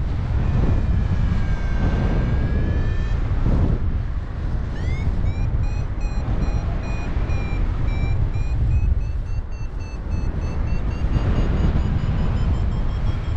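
Paragliding variometer: a steady tone that dips and then rises in pitch, then from about five seconds in fast beeping whose pitch climbs slowly, the vario's signal of rising air. Wind rushes loudly on the microphone underneath.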